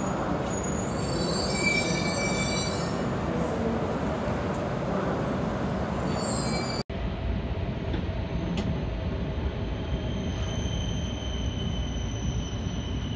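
E2-series Shinkansen train rolling slowly into the platform, with high squealing tones over the rolling noise as it brakes. About seven seconds in this cuts to a steady low running rumble heard from inside the moving train, with a faint high whine.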